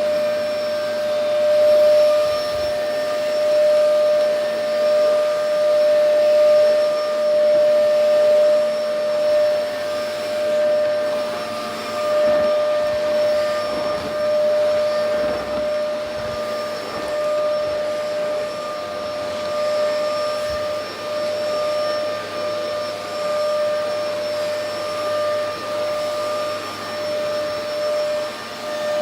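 LG VK69401N vacuum cleaner running continuously with a steady motor whine over the rush of air, its loudness rising and falling a little.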